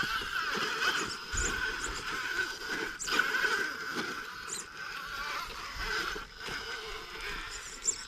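Radio-controlled scale rock crawler's electric motor and drivetrain whining as it crawls over rock, the whine swelling and easing with the throttle.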